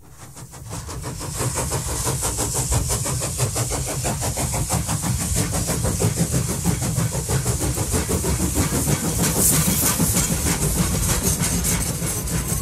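A train running, fading in at the start: a fast, even beat over a low rumble and a steady hiss.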